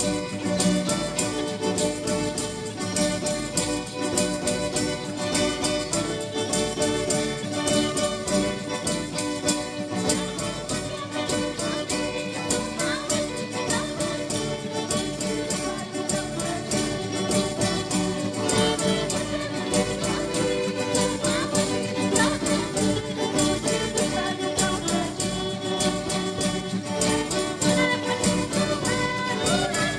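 Church band music with a steady beat and sustained melody lines, with no voices heard.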